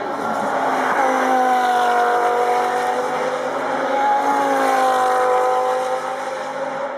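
Audi R8 LMS Ultra race car's V10 engine running hard at speed, its note jumping up about a second in and again about four seconds in, then slowly sagging each time.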